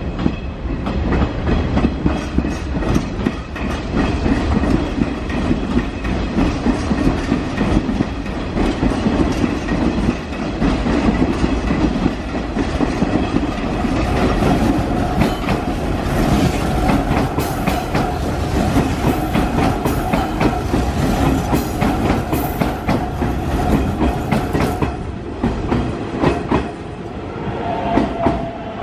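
Hanshin 5500 series renovated electric train rolling in through pointwork, its wheels clattering over rail joints and switches. The clicks come thickest through the middle as the cars pass close, then the sound eases off near the end as the last car clears.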